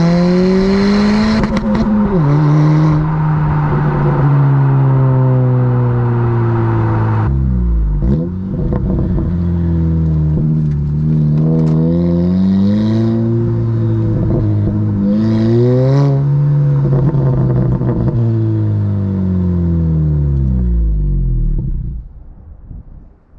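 2022 Honda Civic Si's turbocharged 1.5-litre four-cylinder, with an aftermarket 27WON downpipe and the factory exhaust, running under driving. The engine note rises and falls in pitch several times as it revs up and eases off, then fades out near the end.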